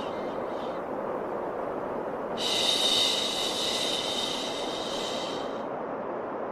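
Steady white-noise hiss with a long shushing 'shhh' laid over it. The shush starts a couple of seconds in and lasts about three seconds before cutting off: a repeating sleep-aid shush for calming a crying baby.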